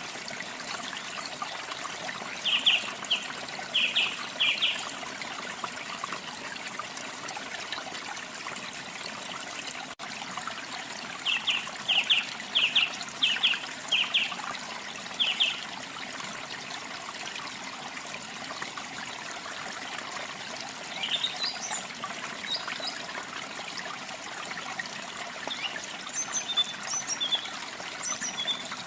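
Steady trickle of running water with a small songbird calling over it: a run of about five short sharp chirps a few seconds in, a longer run of about eight midway, and thinner high chirps near the end.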